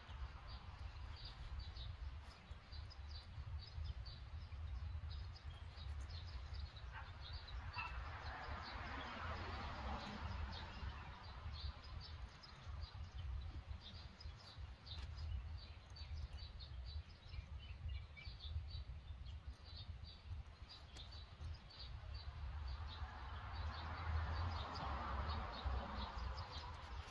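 Small birds chirping in quick, repeated short notes over a steady low rumble, with a swell of rushing noise about eight seconds in and again near the end.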